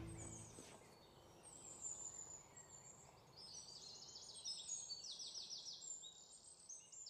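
Faint birdsong from small birds: high chirps, then quick repeated trills, busiest from about three and a half seconds in. The last acoustic guitar chord dies away at the very start.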